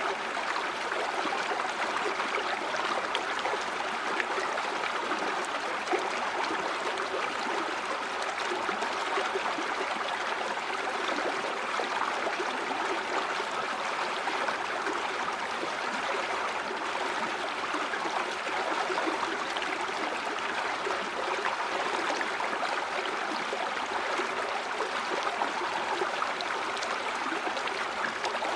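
Stream water running and gurgling over rocks, a steady rushing with fine splashing detail.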